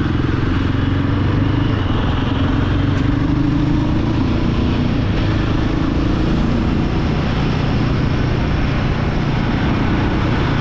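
Royal Enfield Guerrilla 450's single-cylinder engine running steadily under way, its exhaust note rising a little about a second in, with a haze of road and wind noise over it.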